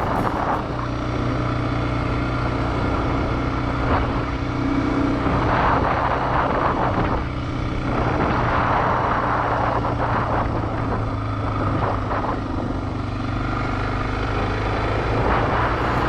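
Motorcycle engine running steadily at road speed, its low drone under heavy wind rush over the microphone.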